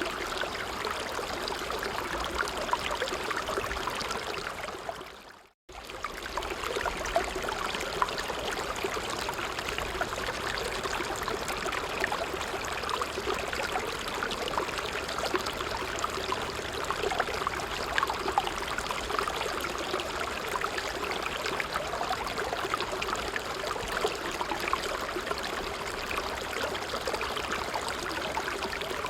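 Small stream running steadily with a bubbling trickle. About five seconds in it fades out to silence for a moment, then comes straight back.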